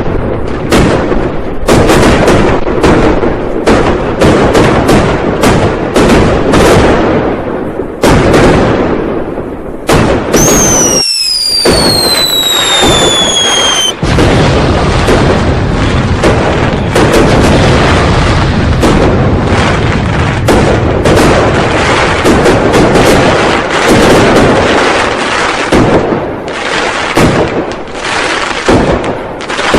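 Firecrackers and fireworks going off in a dense, continuous barrage of bangs and crackles. About ten seconds in, the bangs pause briefly for a whistle that falls in pitch over a few seconds, then the barrage resumes.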